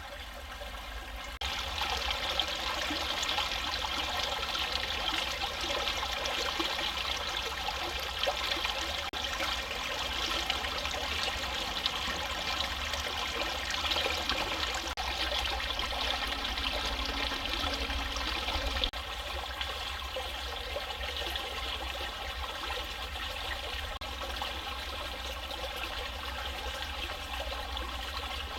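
Shallow forest creek running over stones, a steady rushing and trickling of water. It gets louder about a second and a half in and a little quieter about two-thirds of the way through.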